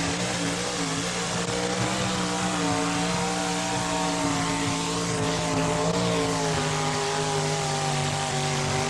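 Four-wheel-drive pulling truck's engine at full throttle, running loud and steady with its pitch holding nearly level as it drags the weight-transfer sled down the track.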